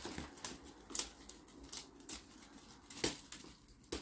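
Scattered light clicks and taps of small hard objects, irregular and a few to the second, with a sharper click about three seconds in.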